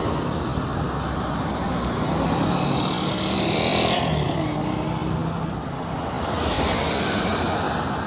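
Road traffic: motor vehicle engines running and tyres on the road, with a vehicle passing close by about three to four seconds in.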